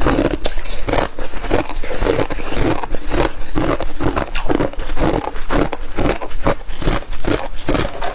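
Flaky freezer frost being chewed close to the microphone: a steady run of crunches, about two a second.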